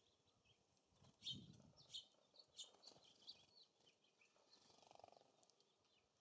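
Faint outdoor sounds at a bird feeder: a few small bird chirps, and a run of light taps and knocks from about one to three and a half seconds in, the first with a soft low thump.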